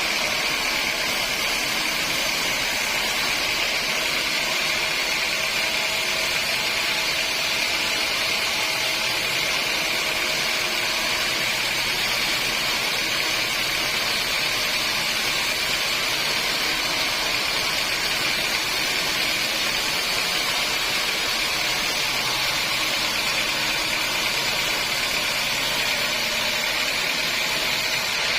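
Sawmill machinery running steadily, a constant high-pitched noise that holds the same pitch and level throughout.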